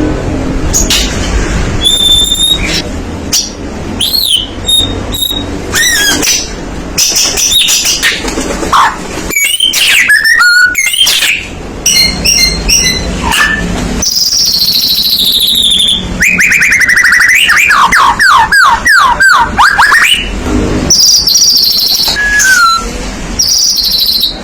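White-rumped shama (murai batu) in full, continuous song: a varied run of loud whistles, fast repeated notes, trills and long sweeping glides, over a low background hum.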